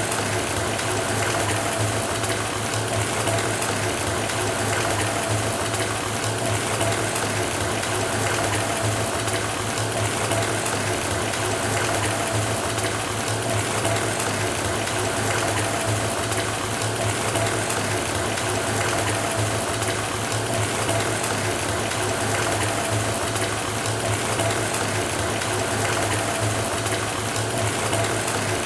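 Bathtub faucet running, water pouring steadily into a filling tub: an unbroken rush with a steady low hum underneath.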